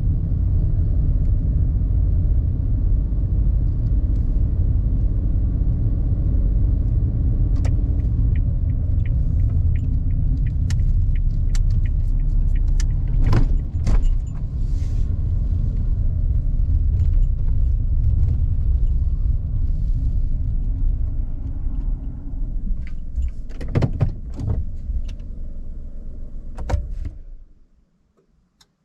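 Heard inside a car, a steady low engine and road rumble while it moves slowly, with a few scattered clicks and knocks. A second or two before the end the rumble stops suddenly: the engine is switched off on arrival.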